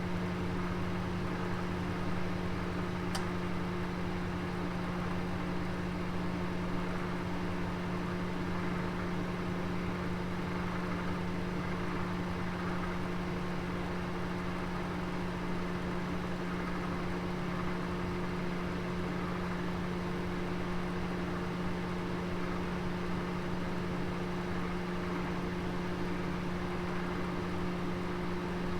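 Oven running with a roast inside: a steady hum over a constant low drone, and one faint tick about three seconds in.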